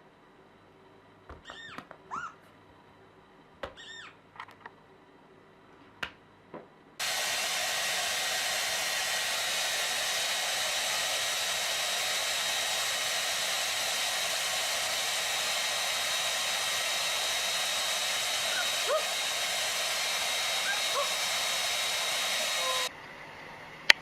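A few short high-pitched animal calls, then about seven seconds in a loud, steady rushing noise starts, like a blower or hair dryer running, and cuts off suddenly near the end.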